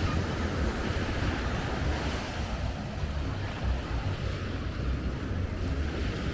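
Ocean surf breaking and washing ashore, with wind gusting on the microphone as a low rumble. The wash eases a little about halfway through.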